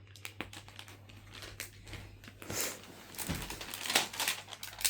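Sticker sheet crinkling as stickers are peeled off it, a run of small clicks and rustles with a louder crackle about halfway through and another near the end.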